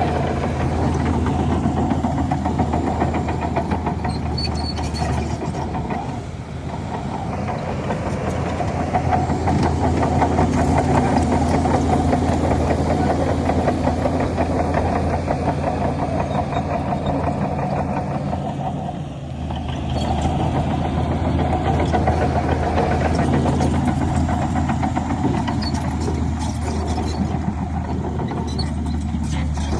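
Heavy diesel engine of an earthmoving machine running steadily under load, with a low drone that eases off and picks up again about six seconds in and again about nineteen seconds in.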